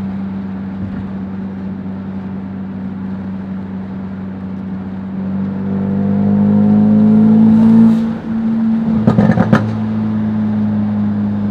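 Tuned Ford Focus RS turbocharged four-cylinder cruising, then rising in revs under acceleration for about three seconds before a sudden drop as the driver lifts or shifts. A quick run of sharp pops from the exhaust follows, and then the engine settles back to a steady cruise.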